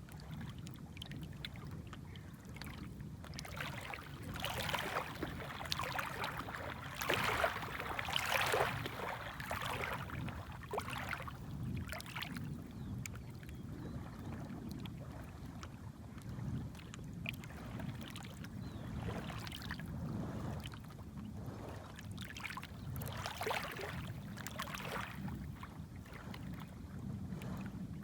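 Small waves lapping at the shore: irregular washes and splashes over a low, steady rumble of the sea, strongest about a third of the way in.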